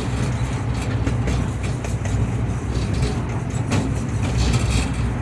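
Miniature passenger train running along its track, heard from aboard: a steady low rumble with scattered clicks and knocks.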